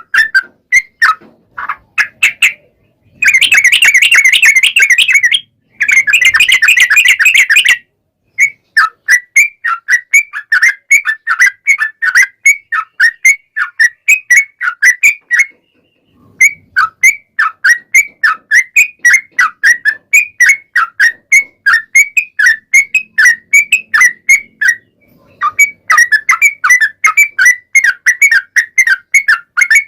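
Yellow-vented bulbul singing a long, rapid run of short bubbling chirps, with two dense chattering bursts between about three and eight seconds in and brief pauses around eight, sixteen and twenty-five seconds.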